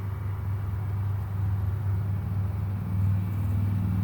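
Steady low hum of honey bees swarming over the frames of an opened hive.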